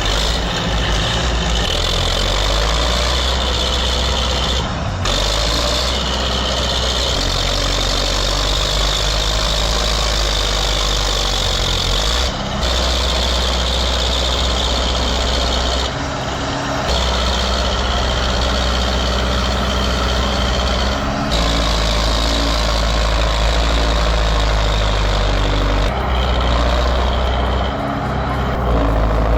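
Heavy tractor engines running steadily, a deep rumble that jumps abruptly several times where different clips are cut together.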